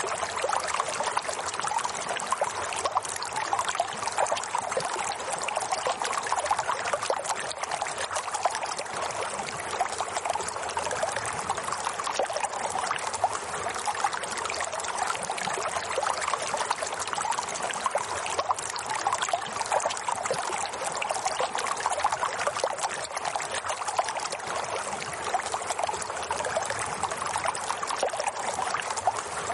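Running water trickling steadily with a fine, bubbling texture and no change.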